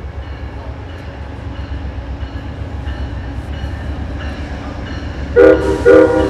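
An approaching train rumbles, growing louder, then its locomotive horn sounds two short, loud blasts near the end.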